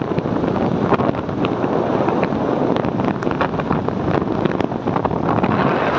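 Wind buffeting the microphone of a moving motorbike, a steady rush and crackle with the bike's running rumble underneath.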